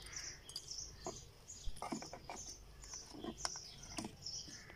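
Small birds chirping busily and continuously, with a few sharp clicks and knocks as a steel plate held in an alligator clip is handled and set into a plastic tub.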